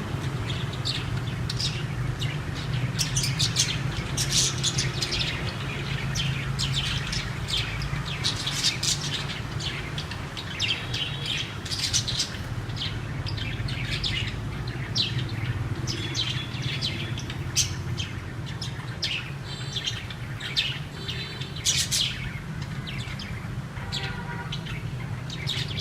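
A flock of budgerigars chirping and chattering: many short, high chirps overlapping throughout, over a steady low hum.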